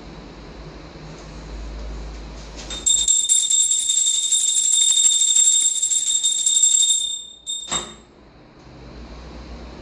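A hand bell rung rapidly and continuously for about four seconds, starting about three seconds in: a high, bright ringing. It stops suddenly, followed by one more short ring.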